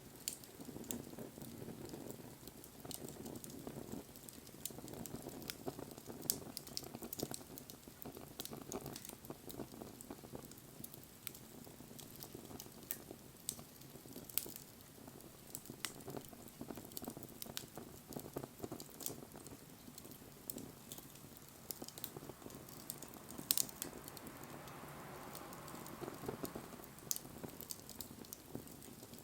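Wood bonfire crackling, with irregular sharp pops over a low steady rush of flames. In the last third a soft hiss swells and fades.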